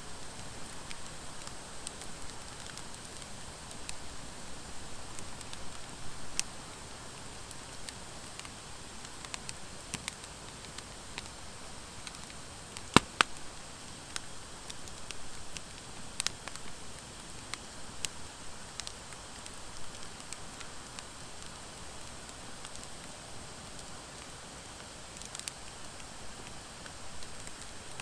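Wood fire of driftwood and dry hardwood logs burning, crackling with scattered sharp pops over a steady hiss, with one loud double pop about halfway through.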